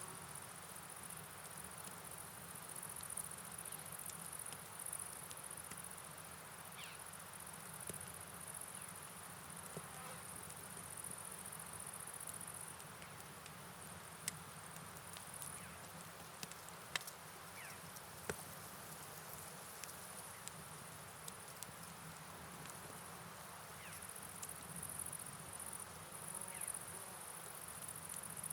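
Steady night rain and flowing river noise under a high chorus of chirping insects such as crickets, which fades out about halfway and comes back near the end, with a few sharp ticks scattered through.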